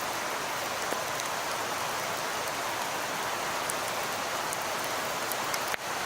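Steady hiss of falling precipitation with fine scattered ticks, like sleet or rain landing on surfaces. It breaks off briefly near the end.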